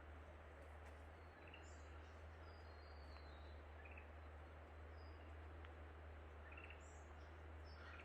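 Near silence of the forest: faint, scattered short high bird chirps, several times over, above a low steady hum.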